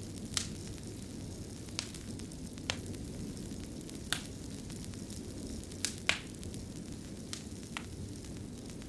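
Wood fire crackling in a fireplace: a steady low rumble of burning with sharp, irregular pops, about one a second.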